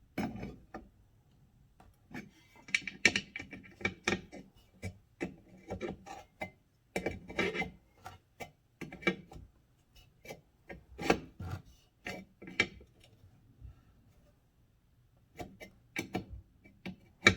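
Irregular metallic clinks, taps and scrapes of hand tools and a replacement pressure-gauge fitting being handled on an All American pressure canner's lid, some with a short ring.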